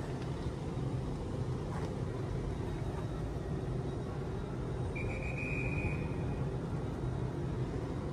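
LNER Azuma high-speed train standing at the platform, its running equipment giving a steady low hum. A high, steady tone lasting about a second and a half comes in about five seconds in.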